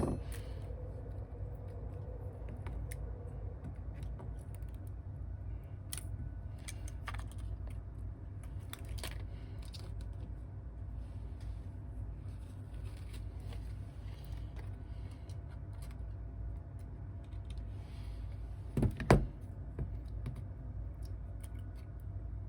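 Scattered light clicks and taps of small hand tools and phone parts during a smartphone repair, over a steady low hum, with two louder knocks about nineteen seconds in.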